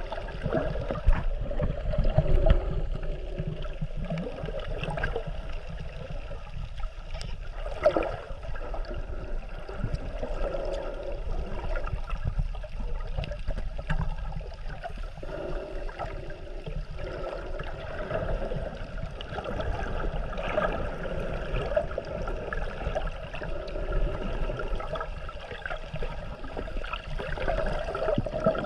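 Water sloshing and gurgling around the camera, with a steady low rumble, muffled as if the microphone is in or at the water. A few short knocks stand out.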